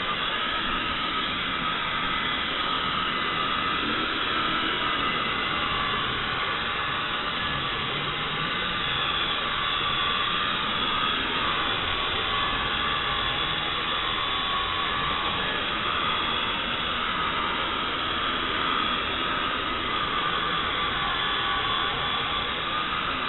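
Xieda 9968 mini RC helicopter's electric motors and rotor whining steadily in flight. The pitch drifts slowly up and down as the throttle changes.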